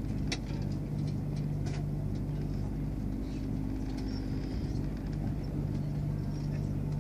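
Steady running drone of a moving passenger train heard from inside the carriage, with a constant low hum, and a few light clicks in the first couple of seconds.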